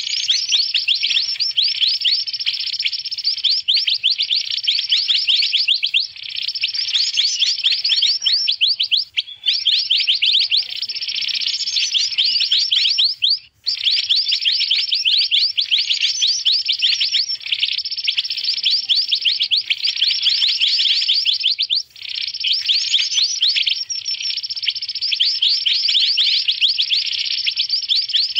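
Recorded lure call of mantenan birds: a dense, busy stream of rapid, high chirps, broken by short gaps about 9, 13 and 22 seconds in, as in a looped lure track.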